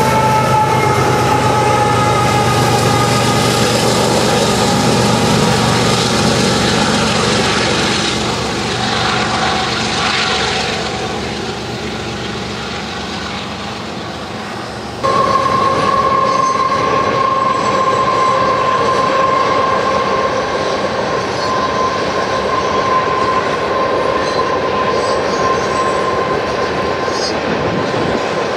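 A diesel locomotive working in a loaded coal train climbing a grade passes close by, its engine drone and a steady high wheel squeal fading away over the first half. After an abrupt cut, a long train of loaded coal hoppers rolls by with a steady high-pitched wheel squeal over the rumble of the wheels.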